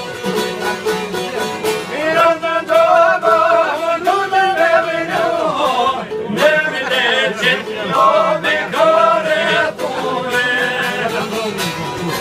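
Albanian folk song: a plucked string instrument keeps up a steady accompaniment, and a melodic vocal line comes in about two seconds in and runs with short breaks until near the end.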